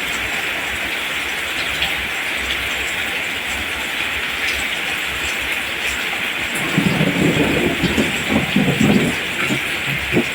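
Steady rain falling on rice plants, with a low rumble of thunder that swells about two-thirds of the way through and fades after a few seconds.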